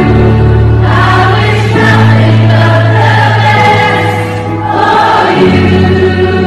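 Choral music: a choir singing sustained notes over a steady held bass.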